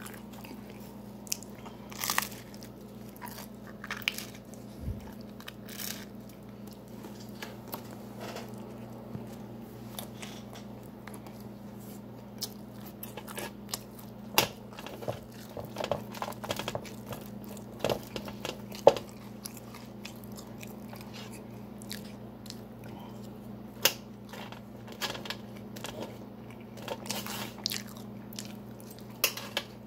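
A person chewing and biting into thin-crust pizza: irregular, short, sharp crunches and mouth clicks throughout.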